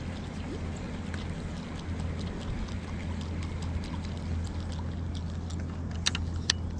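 Small ticks and splashes of water against a canoe over a steady low hum, with two sharp clicks about six seconds in.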